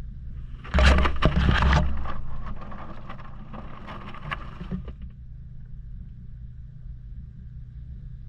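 Maytag washing machine running with a steady low motor hum, heard from inside the drum. About a second in comes a sudden loud rush of sloshing water, with knocks and clicks against the camera, tapering off over the next few seconds.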